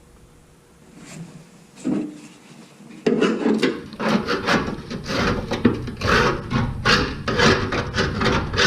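Quick, irregular scraping and rubbing strokes, starting about three seconds in after a quieter stretch with a single short scrape.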